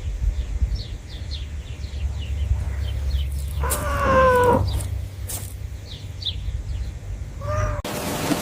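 An animal's call lasting about a second, a pitched cry falling slightly in pitch, over a low rumble and scattered short high chirps; a brief second call comes near the end.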